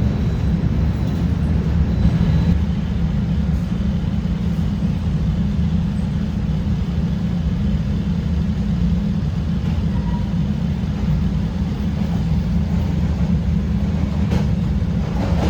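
CTA Red Line rapid-transit train running through the downtown subway, heard from inside the car: a steady, loud low rumble of wheels and traction motors.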